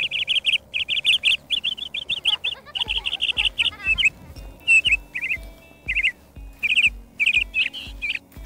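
Birds chirping in quick clusters of high notes throughout. About three seconds in, music with a steady low beat of about two thumps a second comes in underneath.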